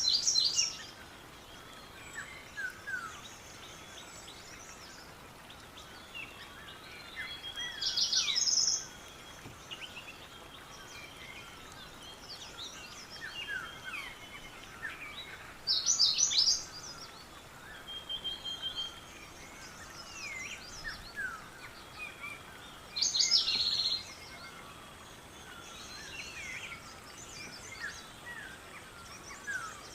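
Birdsong: a loud, short, high song phrase repeats about every seven to eight seconds, four times, over many fainter chirps from other birds and a steady background hiss.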